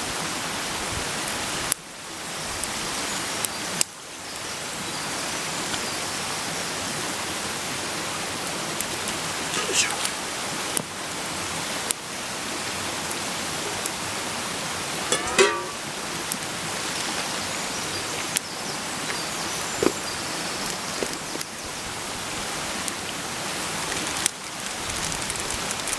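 Food sizzling in a frying pan over a campfire: a steady sizzle with scattered pops, briefly dropping away twice in the first few seconds.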